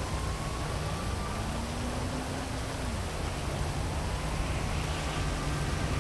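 Heavy rain falling steadily over a low city traffic hum, with faint rising and falling engine tones of passing vehicles.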